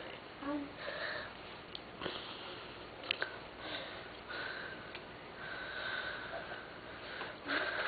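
Sniffing and breathing close to the microphone, with a few soft clicks.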